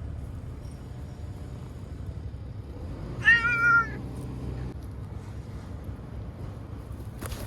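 A frightened feral cat meows once, a long loud call about three seconds in, over a steady low rumble. A sharp knock comes at the very end.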